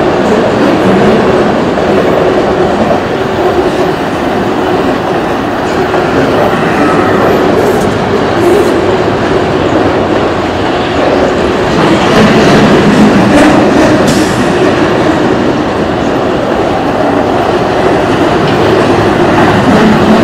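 Autorack freight cars of a fast CSX train rolling past, a loud, steady rumble with the clickety-clack of steel wheels over the rails.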